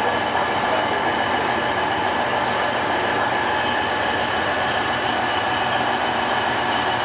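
Passenger train running on the rails: a steady rolling noise with several high, steady whining tones over it.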